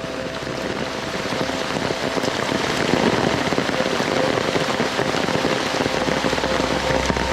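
Heavy rain pouring down in a steady hiss, growing louder over the first few seconds and then holding steady.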